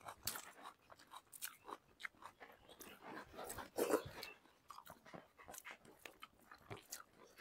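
Faint chewing and wet mouth sounds of people eating rice and chicken curry by hand, with scattered small clicks and a slightly louder bout of chewing about four seconds in.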